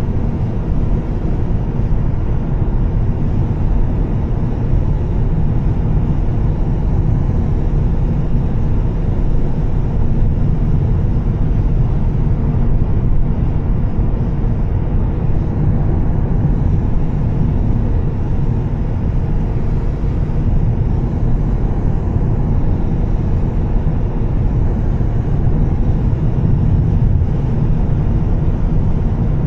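2013 Volvo S60 T6 driving at a steady speed: a steady low rumble of engine, exhaust and tyres on a rain-wet road, with no revving or gear changes.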